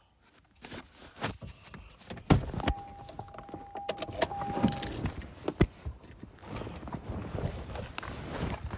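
Scattered clicks and knocks from handling things in and around a car, with a steady electronic beep lasting about two seconds, briefly broken, starting between two and three seconds in.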